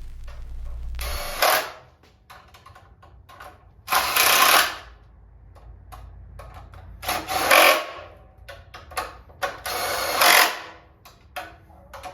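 A power tool run in short bursts of about half a second to a second, four times, roughly every three seconds, with faint tool clicks between the bursts.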